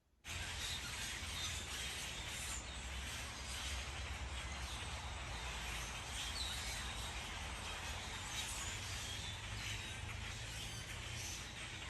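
Outdoor ambience: a steady noisy background with a low rumble underneath, and a few faint, short bird chirps scattered through it.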